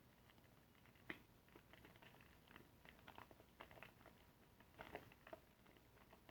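Soft, irregular wet squishing and crackling of a soapy car-wash sponge being squeezed and lathered, with a sharper click about a second in and a denser patch of squelches near the end.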